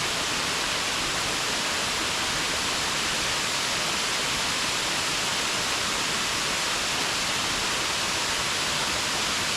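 Waterfall rushing: a steady, even roar of falling water with no let-up.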